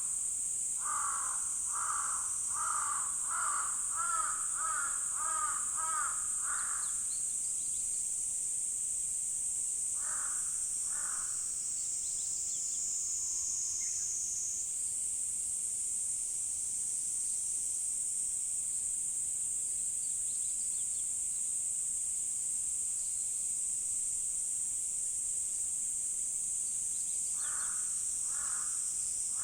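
A crow cawing in a quick run of calls, about two a second, for the first several seconds, twice more about ten seconds in, and again near the end. Under it runs a steady high-pitched insect drone.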